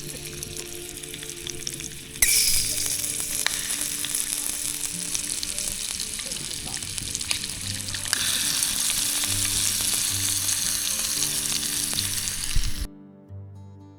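Hot dogs cooking over a camp fire, sizzling and bubbling steadily with small crackles. It gets louder about two seconds in and again about eight seconds in, then cuts off abruptly just before the end, leaving soft guitar music.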